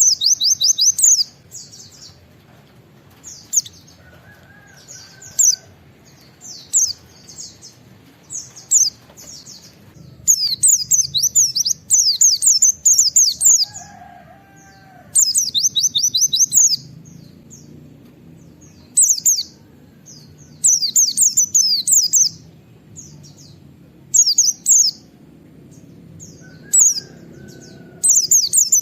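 White-eye (pleci) singing its 'nembak' song: rapid bursts of high, fast down-slurred 'wit wit' notes, each burst lasting up to about two seconds and repeated after short pauses.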